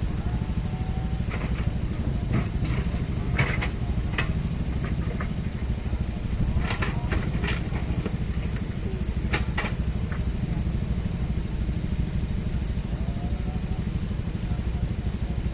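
Mini excavator's diesel engine running steadily while it works, with short clanks and scrapes of the bucket and soil, heaviest in a few clusters in the first ten seconds.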